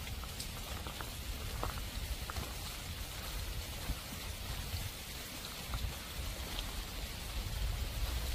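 Heavy rain pouring down: a steady hiss with scattered drops ticking close by and a low rumble beneath.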